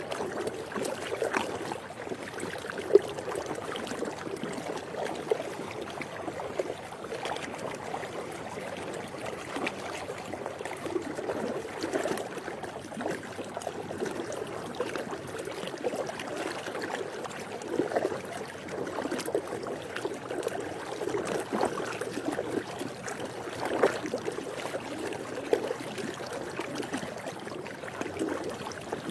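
Swimming pool water lapping and sloshing continuously, with many small irregular splashes and no steady rhythm.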